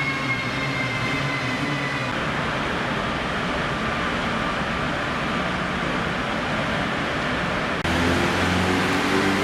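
Formula Ford race car engine running hard on a dyno. Its note falls in pitch over the first two seconds and gives way to a loud rushing sound. About eight seconds in the sound changes abruptly to a steady, lower engine note.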